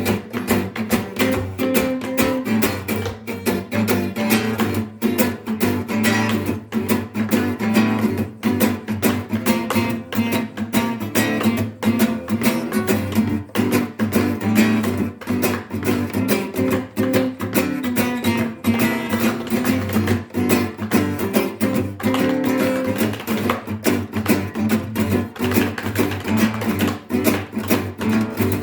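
Acoustic guitar music, strummed rapidly and rhythmically without a break.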